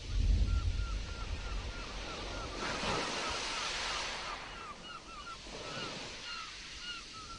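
Stormy sea surf with a low rumble in the first second and a louder wave rushing in about three seconds in. Over it runs a steady string of short high chirps, about three or four a second.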